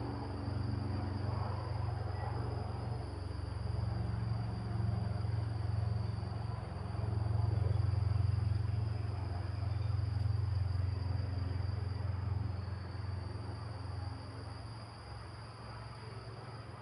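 Wind rumbling low, easing off near the end, over a steady high trill of insects such as crickets.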